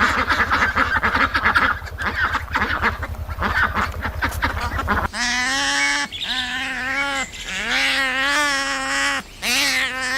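Waterfowl honking and quacking, many calls overlapping over a low rhythmic hum. About halfway through, the sound changes to a series of drawn-out animal calls, each steady in pitch and about a second long, with short breaks between them.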